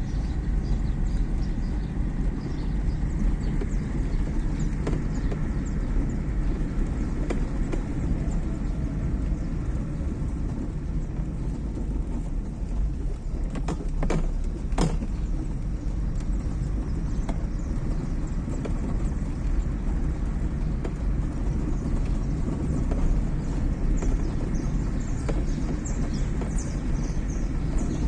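Fiat Uno Fire being driven, heard from inside the cabin: a steady low engine and road rumble, with a plastic water bottle rattling on the dashboard in small ticks and a couple of sharper knocks about halfway through.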